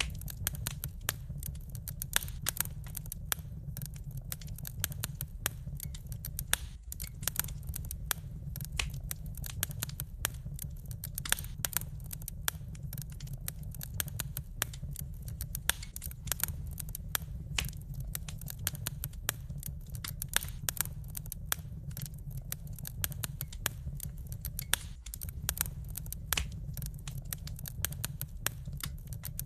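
Wood fire burning in a fireplace, with many irregular sharp crackles and pops over a steady low rumble.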